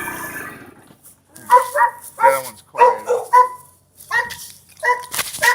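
A dog barking: a quick run of short, high-pitched barks, a brief pause, then a few more. A steady motor hum fades out in the first second.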